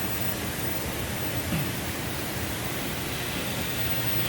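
Steady rushing hiss of water spray at a car wash.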